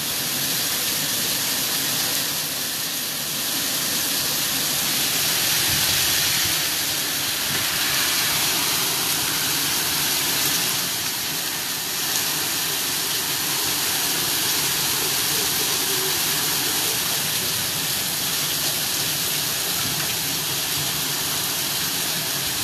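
Heavy downpour: a steady hiss of hard rain pouring onto the street and porch, swelling a little now and then.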